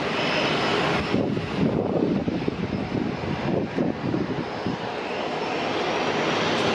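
Airliner engines passing, a loud steady rumble with a faint high whine early on.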